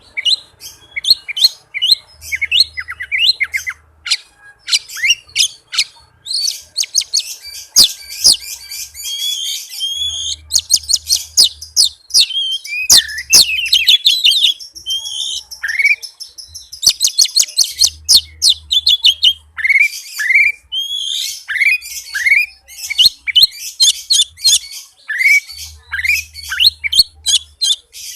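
Oriental magpie-robin (kacer) singing a fast, dense song: rapid runs of chirps and trills, with short rising whistled notes repeated in quick succession.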